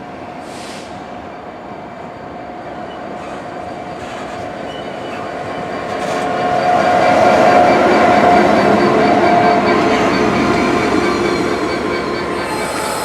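Train passing, growing louder to a peak about halfway through and then fading, with a steady whine over the rumble of the wheels.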